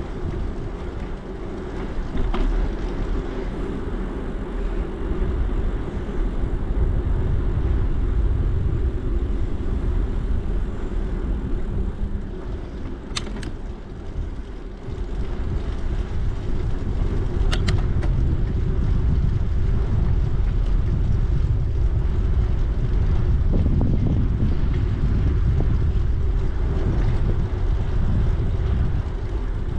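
Riding a bicycle: wind buffeting the microphone and tyre rumble, steady throughout, with two short sharp clicks about four seconds apart near the middle.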